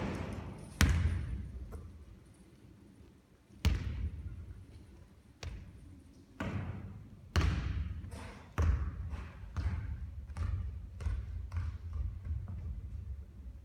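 Basketball bouncing on a hard court floor: single hard bounces a few seconds apart, then from about seven seconds in a run of quicker bounces.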